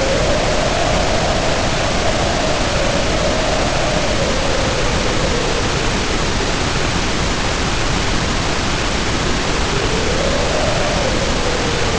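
Storm wind howling over a steady, heavy hiss of pouring rain. The howl is a single wavering tone that slowly rises and falls; it fades away about halfway through and swells back near the end.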